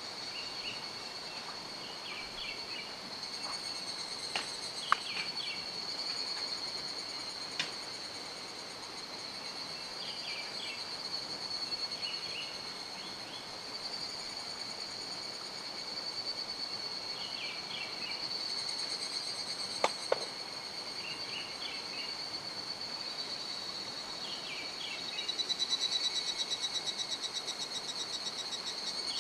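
Insects trilling steadily in a high thin tone over an even rushing background, with short chirping calls repeating every few seconds and a few sharp clicks. Near the end a louder pulsing trill swells in, then fades.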